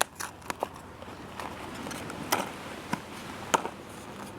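A box of bonbons being opened by hand: scattered crackles and sharp clicks of the packaging, the loudest just over two seconds and about three and a half seconds in.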